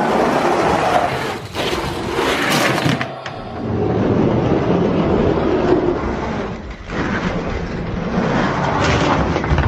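Die-cast Hot Wheels monster trucks rolling and rattling down a plastic track after the starting gate drops: a loud, continuous rumbling clatter with brief dips.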